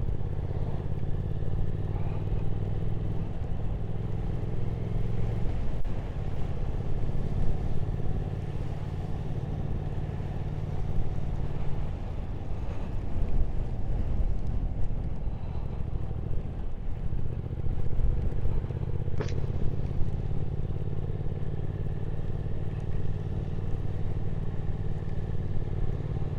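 Triumph Speed Twin 1200 parallel-twin engine running steadily while riding, with wind and road noise over it. The engine note changes a few times, about 6, 12 and 17 seconds in, as the throttle or gear changes, and there is one short click about three-quarters of the way through.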